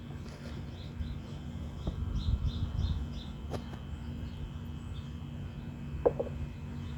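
Low rumbling and rustling from digging potatoes out of garden soil, with a few soft clicks. A bird chirps faintly in the background, a short note repeating about three times a second during the first half.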